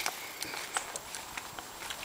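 Footsteps: a few light, irregular steps.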